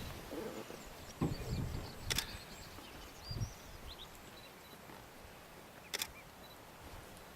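Two sharp camera shutter clicks about four seconds apart, over faint high bird chirps and a few soft low bumps.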